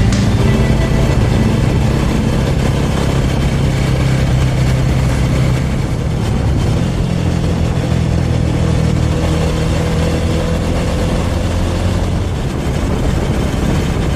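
Small Suzuki motorcycle's engine running steadily while riding, its note shifting slightly about halfway through.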